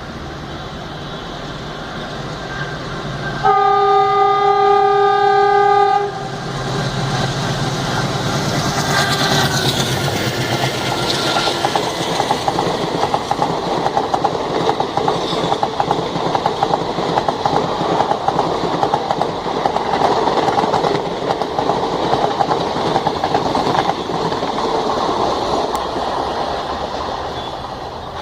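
An Alco diesel locomotive sounds one long horn blast of about two and a half seconds, a chord-like honk that sounds like a WDP3A's. The locomotive and its express coaches then pass with steady wheel noise and clickety-clack over the rail joints.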